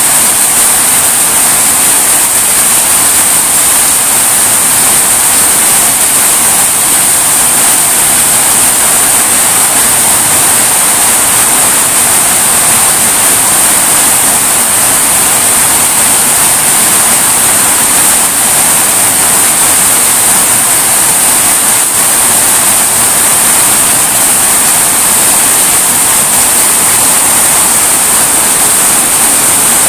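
Heavy rain pouring steadily through tree leaves and onto a yard: a loud, even hiss with no let-up.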